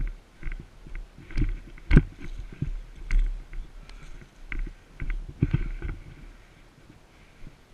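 Irregular knocks, thumps and rustling over a low rumble, the loudest knock about two seconds in, fading to quieter rustling near the end.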